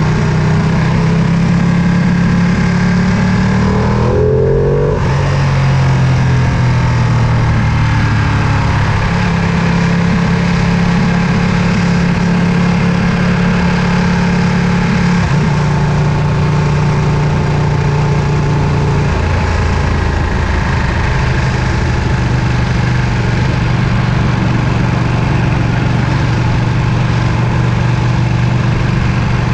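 Ducati Panigale V2's 955 cc Superquadro V-twin running under way on the road, its exhaust note loud and steady. There is a brief dip and glide in pitch about four seconds in, and the pitch steps down in the second half.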